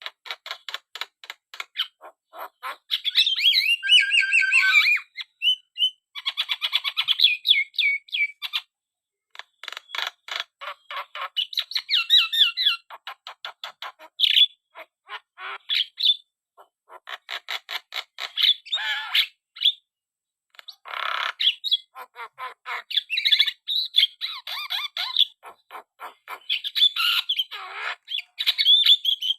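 Javan myna (jalak kebo) chattering in loud bouts: fast runs of dry clicks mixed with harsh squawks and short whistled notes, with brief pauses between phrases.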